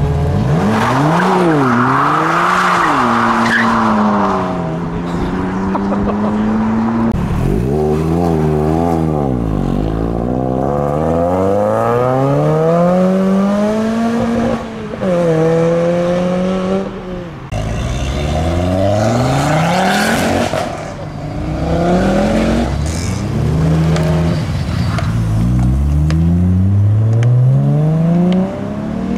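Modified cars' engines revving hard and accelerating away one after another. The pitch climbs through each gear and drops at the shifts, and there are bursts of revving in between.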